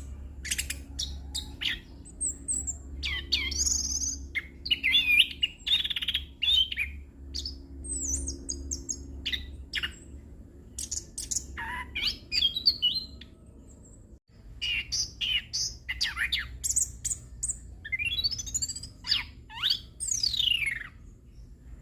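Chestnut-capped thrush (anis kembang) singing a long, varied rolling song of rapid chirps, trills and whistled sweeps, with long rising and falling whistles near the end. A steady low hum runs underneath, and the song breaks off briefly a little past the middle.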